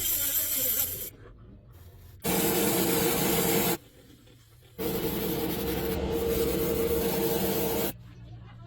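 Three bursts of spraying hiss from a spray nozzle: a short one at the start, another about two seconds in, and a longer one of about three seconds from near the middle, the last two with a faint whistle in them.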